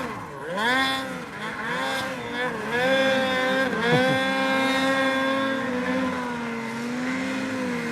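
Ski-Doo Summit 850 snowmobile's two-stroke engine revving up and down about once a second while working through deep powder, then holding a steady high rev for the second half.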